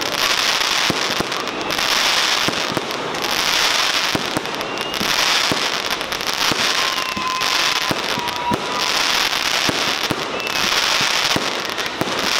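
Fireworks display: a steady string of sharp bangs and crackles, with a hissing crackle swelling and fading about every two seconds. A brief faint whistle comes in the middle.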